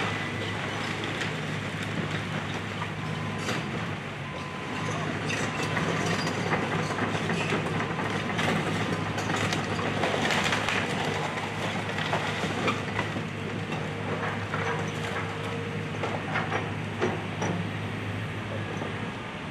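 Excavator demolishing a wood-frame house: the diesel engine runs with a steady hum while timber cracks and debris clatters and crunches irregularly throughout.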